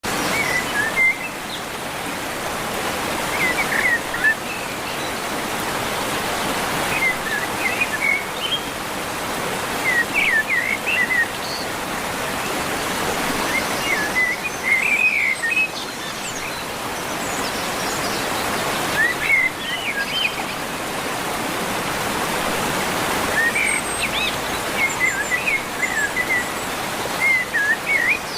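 A songbird singing short phrases of quick chirping notes every few seconds over a steady rushing background noise.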